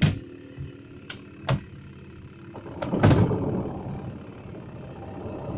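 Twin-tub washing machine's spin section being handled and running: a few sharp clicks and knocks, then a loud clunk about three seconds in followed by a rushing whirr that dies down.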